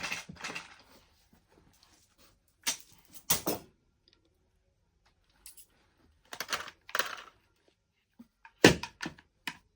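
Scattered knocks and clatters of toys being handled and dropped, in irregular small groups with quiet gaps between them; one sharper knock near the end is the loudest.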